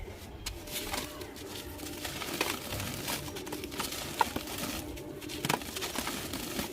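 Dry, dusty crumbly material, such as a chunk of cement or dried clay, crunching and crackling as it is crushed and crumbled by hand, with many small irregular crackles and a few sharper snaps.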